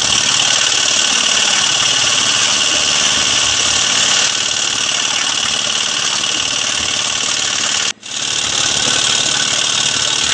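A small engine running steadily with a fast mechanical rattle, as from road-work machinery; the sound drops out for a moment about eight seconds in and comes straight back.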